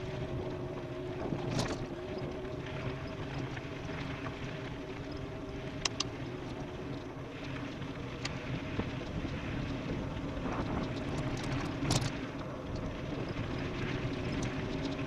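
Riding-noise from an e-bike descending fast off-road: a steady rush of wind and tyre noise with a constant hum underneath, broken by a few sharp knocks from bumps, about a second and a half in, about six seconds in and near the end.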